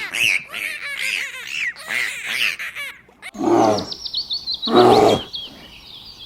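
Animal calls: many short, high, rising-and-falling calls overlapping for about three seconds, then two loud, low calls about a second apart, with a bird twittering behind them.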